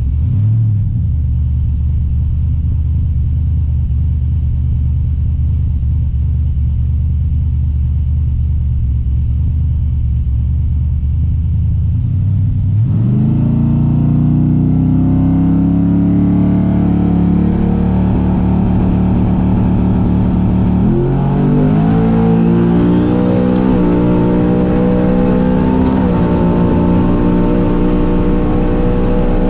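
Drag-racing truck engine running steadily at a low pitch, then about 13 seconds in it revs up and keeps climbing as the truck accelerates. The pitch jumps higher again around 21 seconds in.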